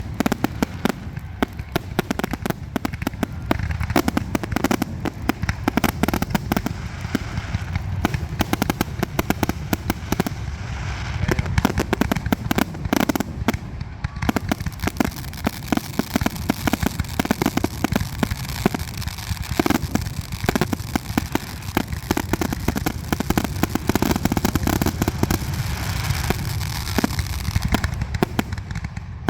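Fireworks display finale: aerial shells bursting in rapid, continuous succession, many bangs a second with no pause between them.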